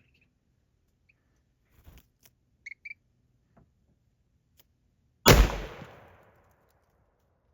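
A single rifle shot fired at a buck from a hunting blind: a sudden loud crack about five seconds in, its echo dying away over about a second.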